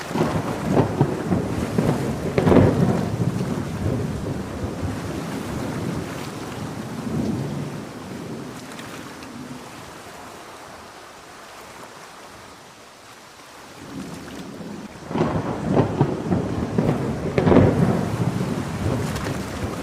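Thunder rolling twice over steady heavy rain: one crackling peal right away that dies down to a low rumble, then a second loud peal rolling in about three quarters of the way through.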